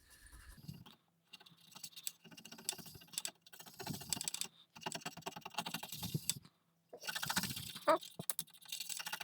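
Scrubbing a circuit board with isopropyl alcohol: scratchy strokes in short bursts with brief pauses, cleaning off corrosion left by a leaked NiCad battery.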